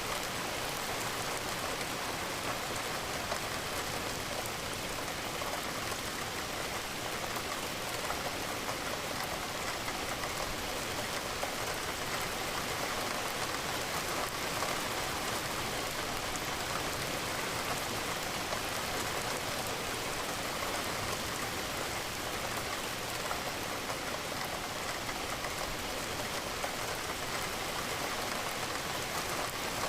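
Steady rain falling, an even wash of many drops with no breaks or single loud events.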